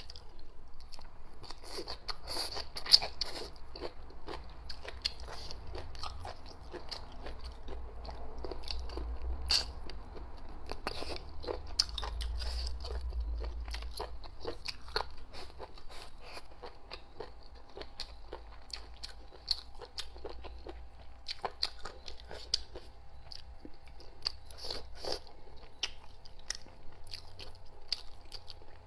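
A person eating close to the microphone: crunchy bites and wet chewing, with many small sharp clicks and crackles throughout.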